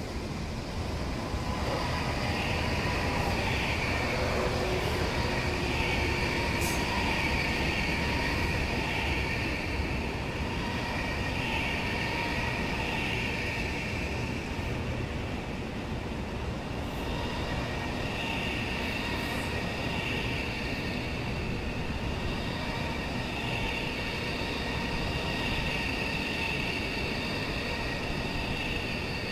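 Fuxing high-speed electric train running slowly past a station platform: a steady rumble of wheels on rail with high-pitched whining tones over it that swell and fade.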